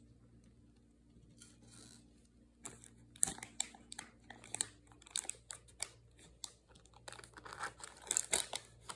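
Plastic bag crinkling and rustling in irregular bursts, starting a few seconds in and busiest near the end.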